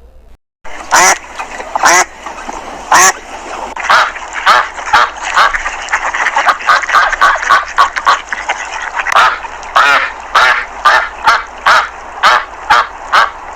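Ducks quacking over and over in quick succession, the calls crowding together around the middle.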